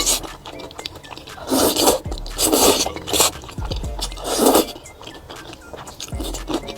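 Noodles being slurped and chewed close to the microphone, in three or four short, hissy slurps with quieter chewing between them.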